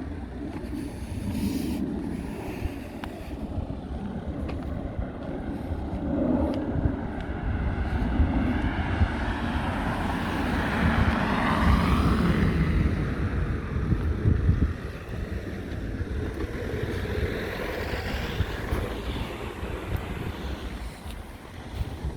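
Wind buffeting the microphone outdoors: a gusty, rumbling rush that swells louder in the middle and eases off again.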